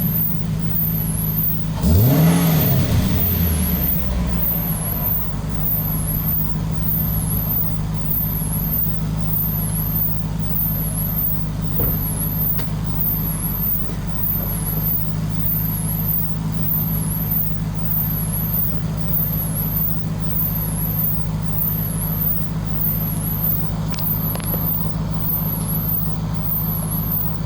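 2007 Lexus LS460 L's 4.6-litre V8 idling steadily through its stock exhaust fitted with Oliver Enterprises exhaust vents. About two seconds in there is one quick blip of the throttle: the note rises and falls back to idle within about a second and a half.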